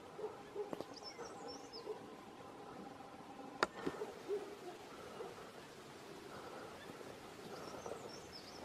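Wild birds calling on a quiet hillside: a few short, soft low notes, and twice a brief high thin chirping from a small bird. A single sharp click stands out about three and a half seconds in.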